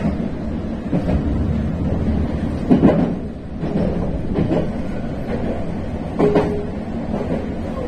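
Meitetsu electric train running over junction pointwork, heard from inside the train: a steady low rumble with a few loud clunks as the wheels cross the points and crossings, the loudest about three seconds in.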